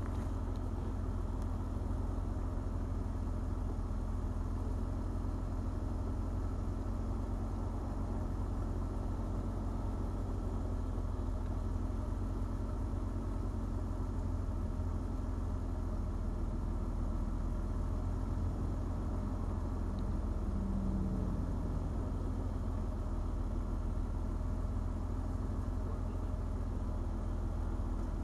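Eagle Premier's engine idling steadily after a two-month sit, burning off the carbon and the ether sprayed in to start it.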